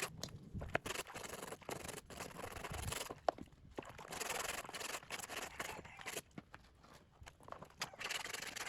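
Irregular scraping and scrubbing strokes of hand work on metal parts, broken by short pauses, with a few sharp clicks.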